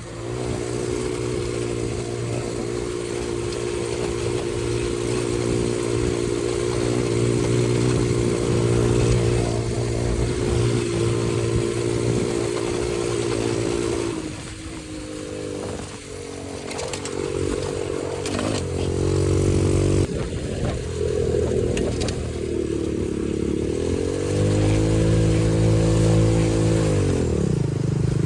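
X-Pro 125cc dirt bike engine running under throttle: steady pitch at first, then about halfway through the pitch drops and shifts up and down through revs and gear changes, with a sharp fall and climb in pitch near the end.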